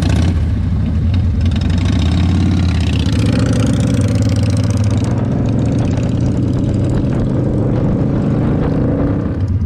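V-twin motorcycle engine running, its pitch climbing between about three and five seconds in, then holding steady.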